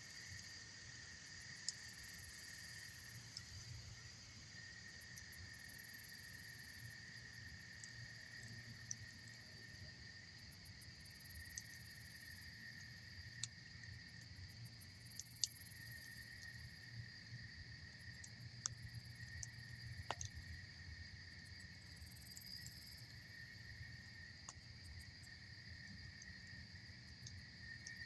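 Campfire burning with scattered sharp pops, about half a dozen spread through, over a steady high chorus of insects and a low rumble.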